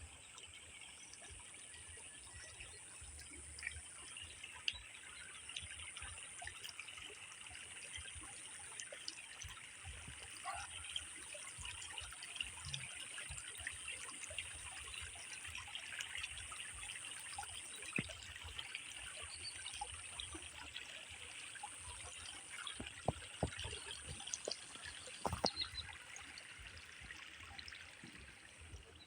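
Water trickling steadily, with small splashes and a steady high hiss above it.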